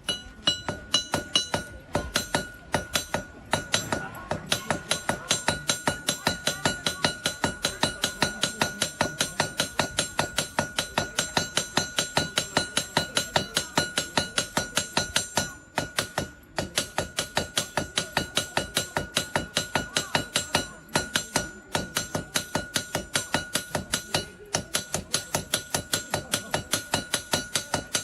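Iron being forged with a hammer on an anvil: a rapid, even run of metallic strikes, about three or four a second, over a constant high ring, broken by a few short pauses.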